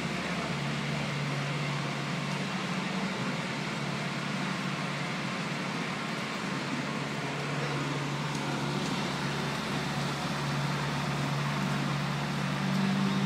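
Engine of a slurry seal paving machine running steadily, a constant low hum with a slight swell near the end.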